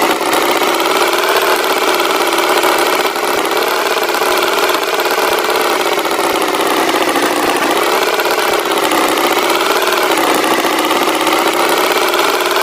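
Tractor engine running steadily, its pitch rising and falling slightly and slowly.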